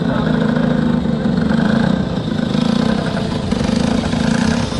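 Motorcycle engine running steadily, its note swelling and easing slightly.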